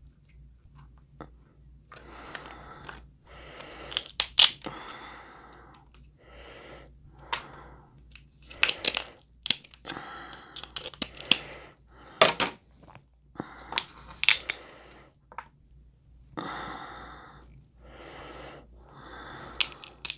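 Crab shells being cracked and pulled apart by hand, with sharp snaps of shell several times among stretches of crunching and tearing, and close-up eating sounds.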